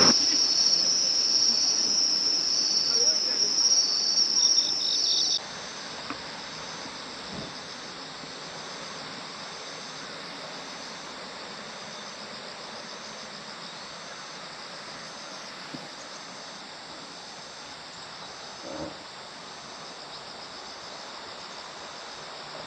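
Insects chirring in a steady high, pulsing chorus. It is loud for about five seconds, then drops suddenly to a fainter chorus that carries on.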